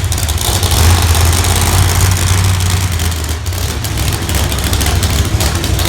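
Heavy engine running steadily with a deep low rumble, loud throughout.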